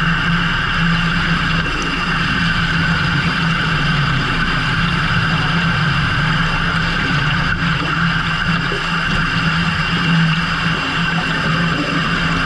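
Fishing boat's engine and deck machinery running steadily: a constant low hum with an even high whine above it.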